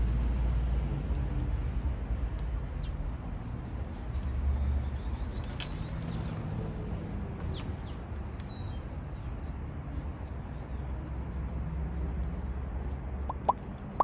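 Short, high, scattered bird chirps over a steady low rumble, with a couple of sharper chirps near the end.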